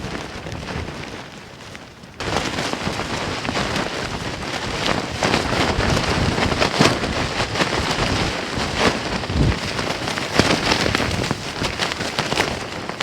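Wind-driven rain pattering and buffeting on a tent's flysheet, a dense patter of many small hits over a steady rush; it jumps much louder about two seconds in and stays loud.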